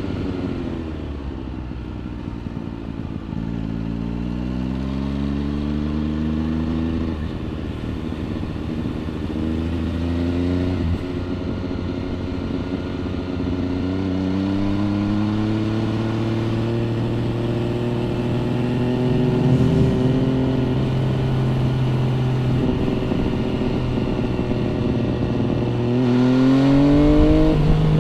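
MV Agusta Brutale 800 RR's inline three-cylinder engine through a Corse trio exhaust, accelerating through the gears: revs climb and drop back at a few quick upshifts in the first half, then pull steadily with slowly rising pitch before a sharper rise in revs near the end.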